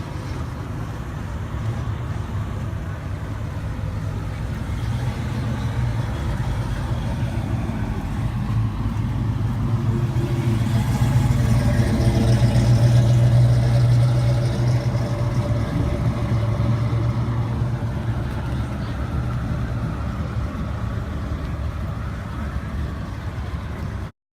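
Car engine running at low revs with a deep steady note, growing louder to a peak about halfway through, then fading. It cuts off abruptly just before the end.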